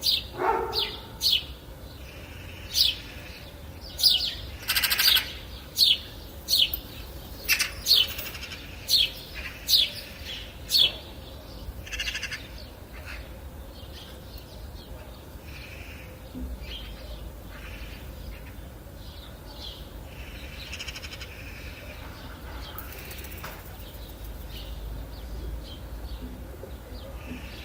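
Birds calling: a run of short, sharp, high calls about once a second for the first ten seconds or so, then fainter, scattered calls over a steady low background noise.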